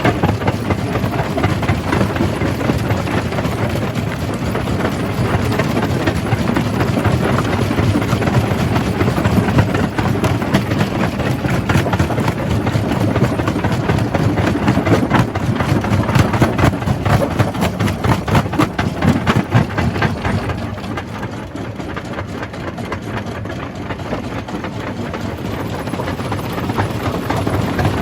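Jaw crusher running and crushing rock: a dense, heavy rumble full of rapid crunching and clattering. It eases off for a few seconds about 21 seconds in, then builds again.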